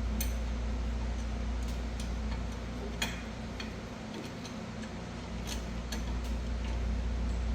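Scattered light metallic clicks and ticks as a C-clamp is worked against a rear brake caliper to squeeze the pad and push the piston back, with a steady low hum underneath.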